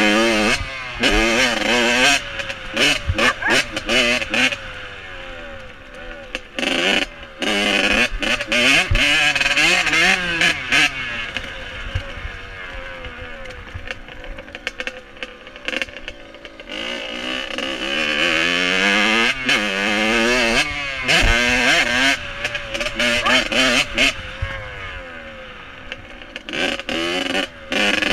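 Dirt bike engine running and revving, its pitch rising and falling again and again, with the sound cutting out briefly many times.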